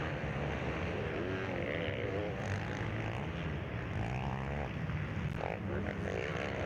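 Several motocross bikes' engines running on the track, their pitch rising and falling as the riders open and close the throttle.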